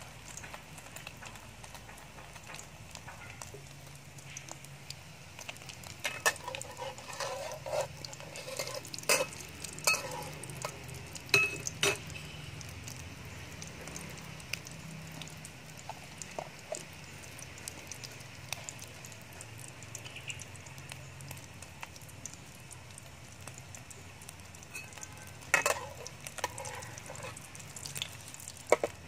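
Egg and fish-paste omelette shallow-frying in bubbling oil in a steel wok, crackling steadily. Sharp clicks and knocks come in a cluster partway through and again near the end, when a metal spatula goes into the wok.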